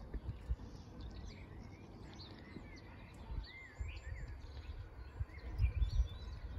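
Small songbirds chirping and singing in short, rising and falling phrases, over an irregular low rumbling noise that grows stronger near the end.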